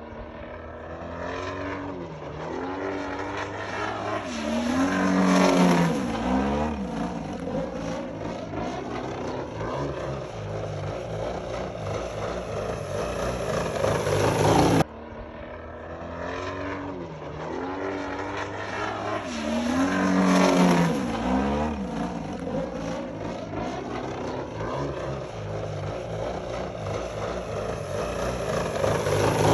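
Desert Aircraft DA120 twin-cylinder two-stroke petrol engine and propeller of a large RC aerobatic plane in flight, its pitch rising and falling as it passes and the throttle changes. The loudest pass comes about five seconds in; the sound cuts off abruptly halfway through and the same passage repeats.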